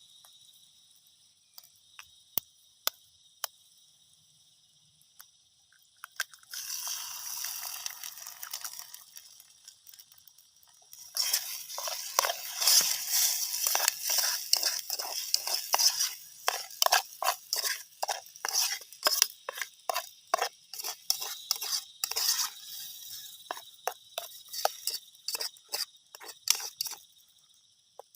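Steady chirring of crickets, with a few sharp clicks early on. About six seconds in comes a few seconds of rustling. From about eleven seconds until near the end there is a long run of rapid crunching and clicking handling noises.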